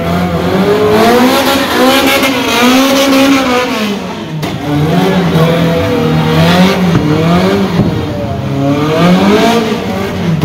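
Car engine revving hard, its pitch swinging up and down again and again.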